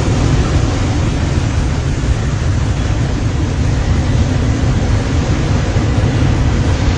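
Ocean surf breaking on the shore as a loud, steady wash of noise, with wind rumbling on the microphone.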